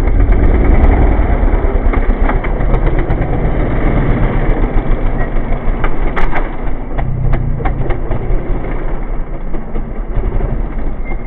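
Trials motorcycle engine running as the bike is ridden, with a few sharp knocks about six to seven seconds in.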